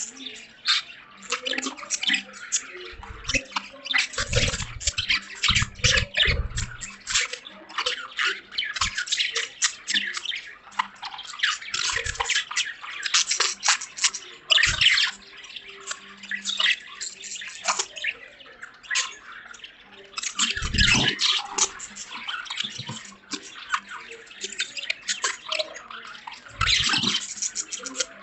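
Budgies chattering and warbling continuously: a dense, uneven stream of quick chirps and clicks. A few dull low thumps come about four to six seconds in and again around twenty-one seconds.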